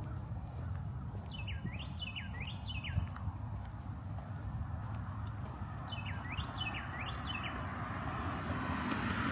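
A songbird sings two phrases of three quick upward-sweeping notes, the first about one and a half seconds in and the second about six seconds in, over a steady low background rumble.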